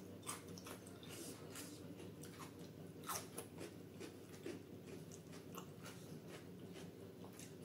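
Crunching and chewing of a raw cucumber stick, with many short, wet mouth clicks, the loudest about three seconds in.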